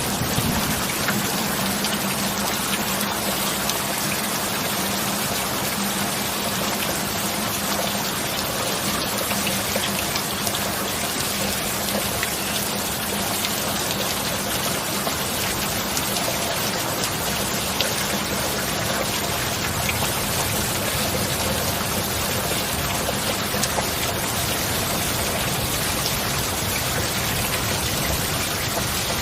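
Steady rain falling: an even, dense patter with scattered individual drop ticks, holding a constant level. A faint steady low tone sits underneath for roughly the first half.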